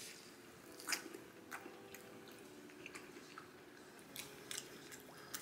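Faint, close-up chewing of a bite of sauced fried chicken wing: a few soft, wet mouth clicks and smacks at uneven intervals.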